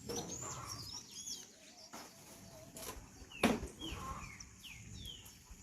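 Small birds chirping in quick, gliding notes, with a sharp knock about three and a half seconds in.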